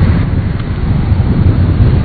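Wind buffeting an outdoor microphone: a loud, uneven low rumble.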